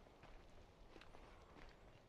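Near silence with faint, irregular footsteps and small clicks.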